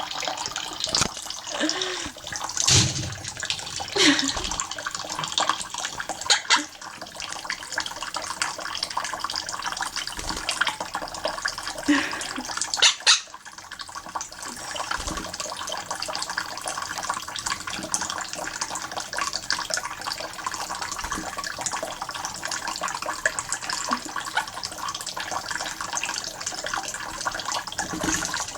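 Steady running tap water with a quaker parrot bathing in it, splashing; several short, louder splashes break through the flow.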